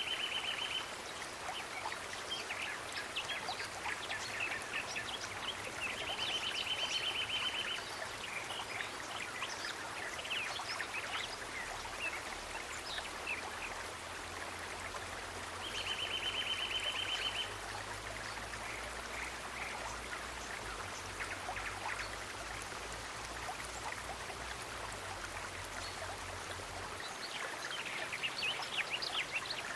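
Nature ambience of running water, with many short bird chirps over it. A buzzy trill of about two seconds comes three times.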